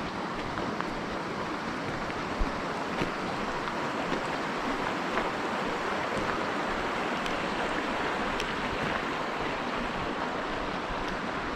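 Steady rush of flowing water, with a few faint clicks scattered through it.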